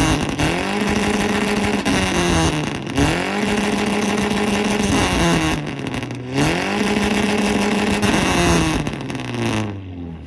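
Toyota pickup's engine revved against a two-step launch limiter. Three times the revs climb and hang at the limiter for about two seconds with a dense crackling, then fall back. The engine drops away near the end.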